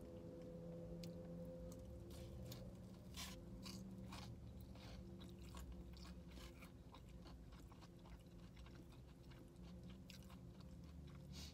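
Soft close-up chewing of a breaded fried chicken finger, with many small crunches of the crisp breading, over a faint steady hum.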